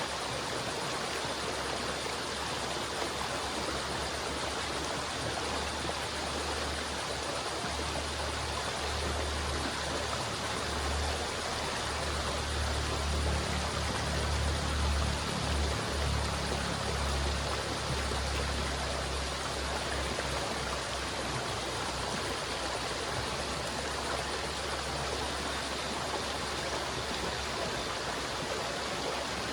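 River water flowing in a steady, even rush. A low rumble underneath swells in the middle and then eases back.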